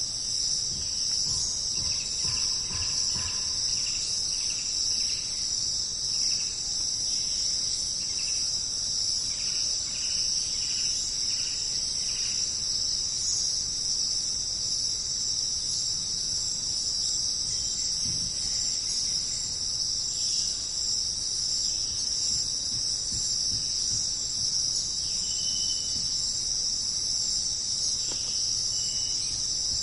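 Steady, high-pitched jungle insect chorus of crickets, with short chirping calls from other animals scattered through the first half and twice near the end.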